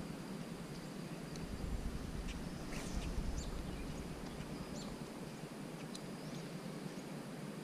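Scattered short, high bird chirps, about eight over several seconds, over steady outdoor background noise.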